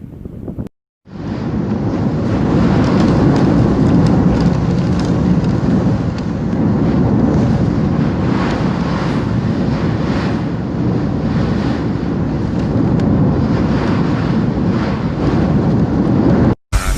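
Hurricane wind blasting the microphone: a loud, steady, rumbling noise that starts about a second in and cuts off suddenly near the end.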